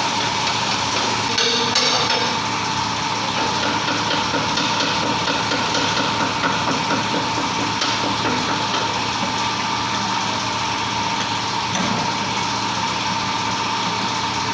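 An engine running steadily at idle, with a few short metallic clanks of tools on metal about two seconds in.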